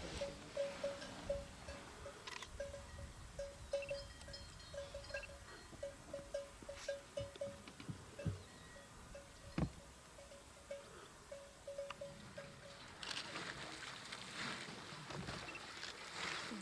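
An animal call: a short, clear, hollow-sounding note repeated over and over in quick, irregular runs at one steady pitch, stopping a little before the end. A few soft clicks and one low thud come in between, and a rustling noise follows near the end.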